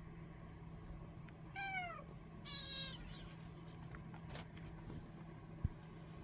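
Kitten about 40 days old mewing twice: a short high call that falls in pitch, then a brighter, slightly longer mew about a second later, over a steady low hum.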